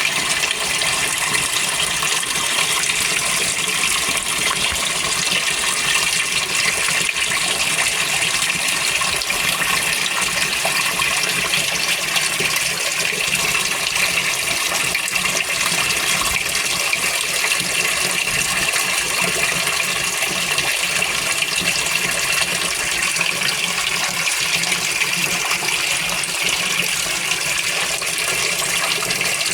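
Cold water running into the washer tub of a GE Spacemaker GUD24ESSM1WW laundry center during the wash fill. It is a steady rush of water.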